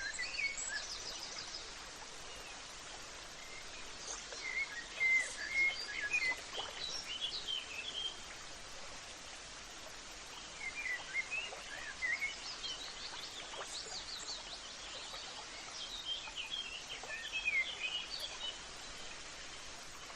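Wild birds chirping and singing in short bouts over a steady, faint hiss of outdoor background noise.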